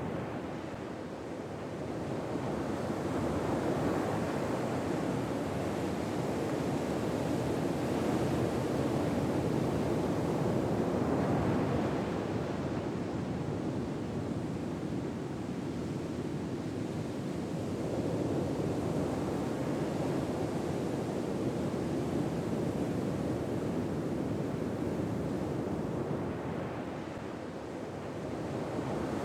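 Gentle ocean waves washing ashore, a steady wash of surf that slowly swells and recedes every several seconds.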